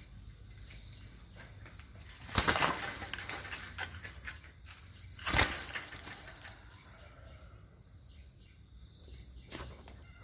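Eclectus parrot flapping its wings: a longer burst of wingbeats about two seconds in and a short one a little after five seconds.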